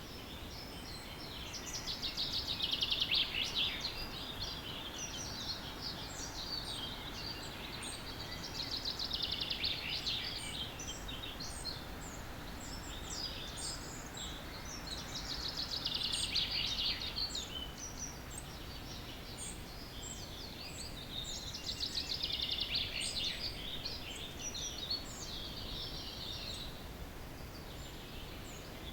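Dawn chorus of several songbirds. One bird repeats a rapid, trilling song phrase of about two seconds roughly every six to seven seconds, while other birds give short, high chirps in between, over a steady low background hum.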